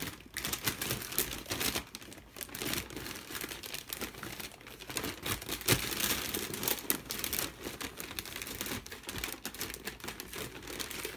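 Wrapping paper on a large gift being crinkled and torn open, an irregular run of rustles and crackles with sharp rips here and there.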